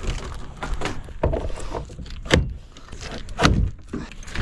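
Irregular knocks and clunks, with two heavier thuds about two and a half and three and a half seconds in.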